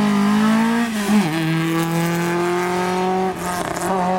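A rally car's engine running hard on a special stage, its pitch rising, then dropping sharply about a second in and holding nearly steady after.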